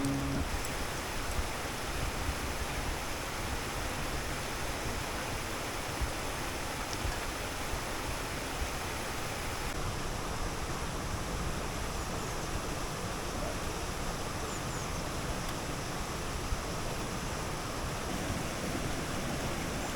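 Steady rushing of running water, like a stream or waterfall, with a few faint ticks.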